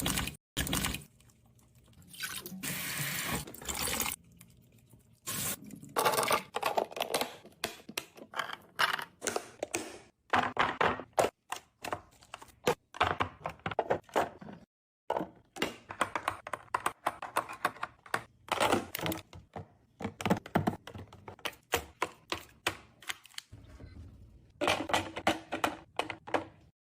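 Containers, jars and bottles being handled and set down on fridge shelves while a fridge is organised: many short knocks and clatters, with a few longer stretches of steady noise.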